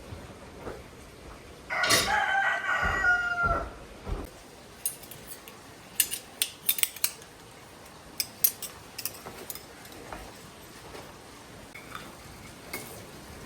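A rooster crows once, a call of about two seconds that drops in pitch at the end. A scattering of short, sharp clicks follows.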